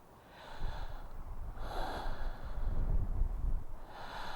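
A woman's close-miked breathing: three long, noisy breaths, the middle one the loudest.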